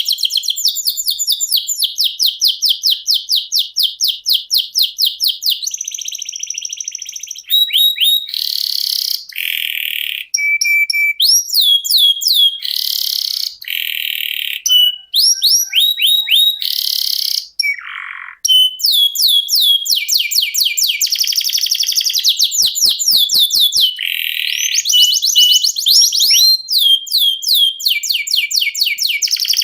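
Domestic canary singing a long, unbroken song: runs of fast repeated notes and trills, switching to a new phrase every second or two, with one brief break about halfway through.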